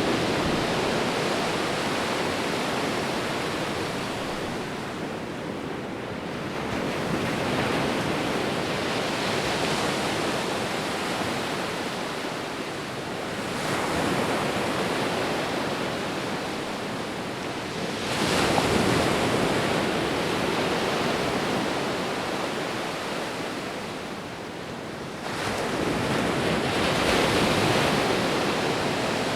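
Sea waves rolling in and breaking on a shore, a steady wash of surf that swells with a new breaker several times, the sharpest surge about eighteen seconds in.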